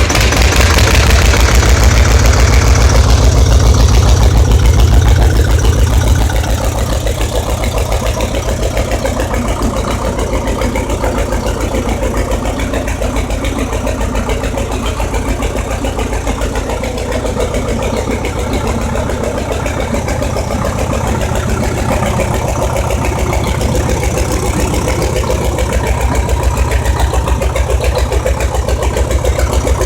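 1974 Fahr D47F tractor engine running just after starting: fast and loud for about six seconds, then settling to a steady idle.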